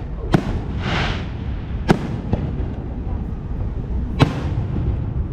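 Aerial fireworks bursting: three sharp bangs a second or two apart over a steady low rumble, with a short hissing crackle about a second in.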